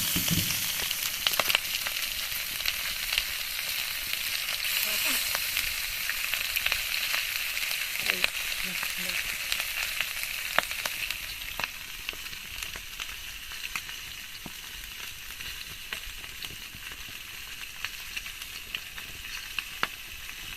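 Food frying in hot oil in a pan: a steady sizzle with scattered sharp clicks of a utensil against the pan. The sizzle eases off a little about halfway through.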